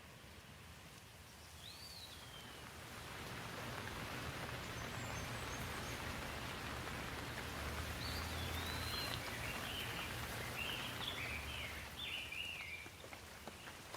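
Rain falling, swelling into a heavier shower for several seconds and then easing off. A bird chirps once near the start, and a run of short bird calls comes in the second half.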